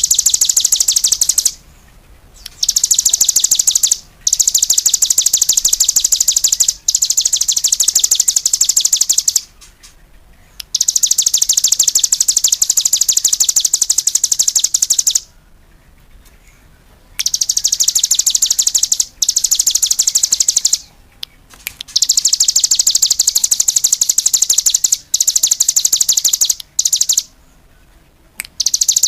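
A small songbird singing long, very rapid high trills in phrases of one to four seconds, broken by short pauses, about ten phrases in all.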